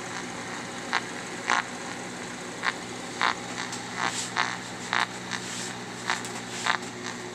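Portable shortwave radio's speaker giving short, irregular bursts of buzzing static over a steady hum. This is interference from a running microwave oven close to the untuned radio, showing microwave leakage through the oven's front.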